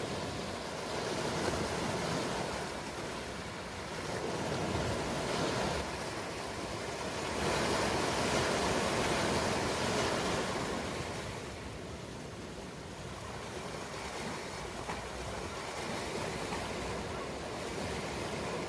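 Ocean waves breaking and washing on a shore, a steady surf noise that swells and ebbs in slow surges every few seconds.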